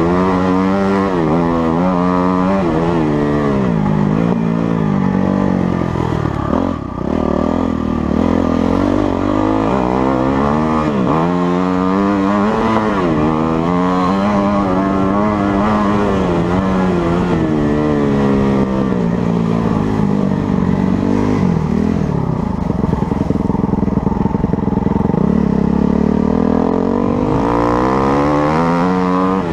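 Motocross bike engine revving up and down over and over as it is ridden, its pitch rising and falling every second or two. There is a brief drop in throttle about seven seconds in.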